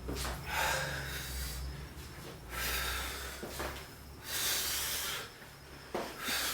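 A man breathing hard from exertion during lunges, with a strong breath about every one to two seconds, over a faint steady low hum.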